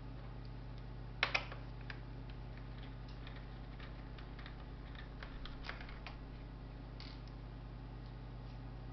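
Light clicks and taps of a laptop's plastic and metal parts and tools being handled during disassembly: a sharp pair of clicks about a second in, then scattered fainter ticks, over a steady low hum.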